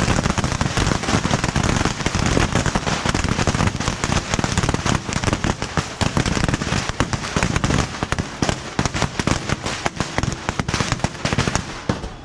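A dense, continuous barrage of bottle rockets and firecrackers going off from a beehive fireworks rack, the rapid pops running together into a crackle. The barrage thins out slightly near the end.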